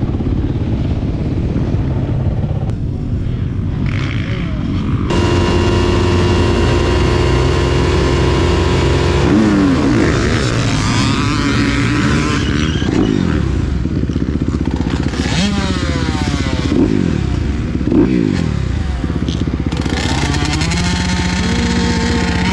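Honda CRF250R four-stroke single-cylinder motocross engine with a Yoshimura titanium exhaust, running hard. About five seconds in it is opened up suddenly and gets much louder, then the revs repeatedly drop and climb again as it shifts and comes on and off the throttle.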